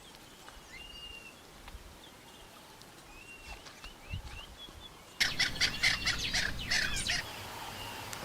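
Faint bird chirps over an outdoor background. About five seconds in comes a sudden, much louder run of rapid, high-pitched chattering calls, lasting about two seconds.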